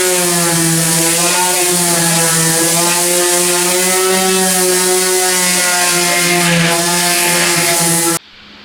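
Power sander running steadily on car body paintwork, its motor tone wavering slightly in pitch as it works, then stopping abruptly near the end.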